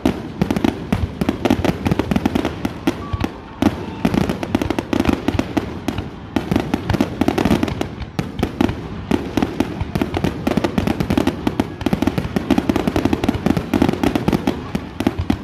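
Aerial fireworks display going off in a dense, continuous barrage: many sharp bangs and crackles a second, with no pause.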